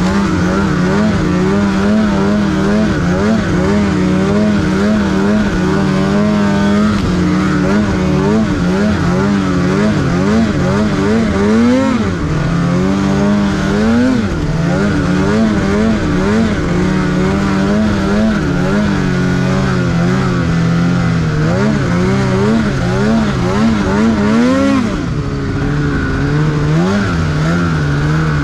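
Snowmobile engine running hard through deep powder, its pitch rising and falling constantly with the throttle. It rises sharply about twelve seconds in, and again near the end before easing off.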